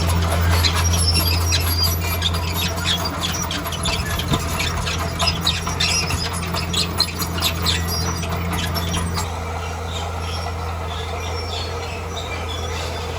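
Bulldozer running with a steady low engine drone, overlaid with rapid high squeaks and clanks from its moving steel tracks; the squeaking stops about nine seconds in while the engine carries on.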